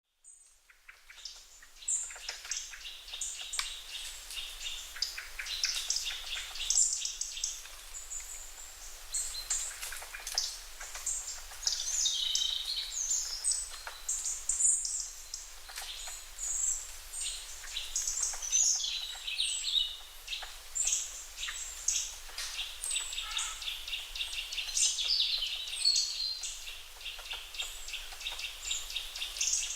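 Outdoor nature ambience of several birds chirping and calling at once, with short whistles and quick trills overlapping throughout. It fades in over the first second or two.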